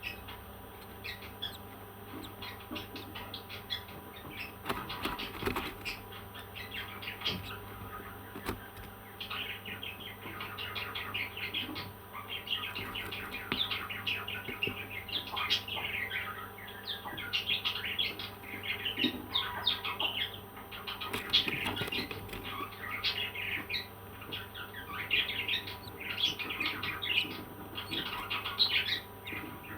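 Parrots chirping in rapid strings of short calls, sparse at first and much busier from about nine seconds in.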